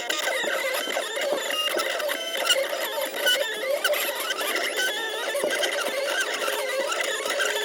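Silhouette Cameo 3 vinyl cutter running through a cut, its motors whirring in short squeals that keep changing pitch as the blade carriage and rollers shift back and forth.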